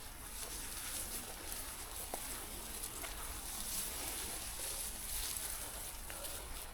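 Steady outdoor background hiss with a few faint, scattered ticks.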